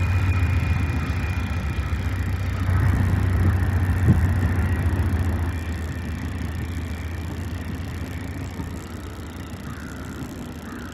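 Steady low rumble of a passing vehicle, fading gradually after about five seconds.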